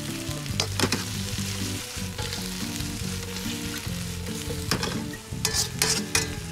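Cuttlefish pieces sizzling in hot oil with garlic and onions in a carbon steel wok as they are stir-fried, with several sharp scrapes of the stirring against the wok. Background music plays underneath.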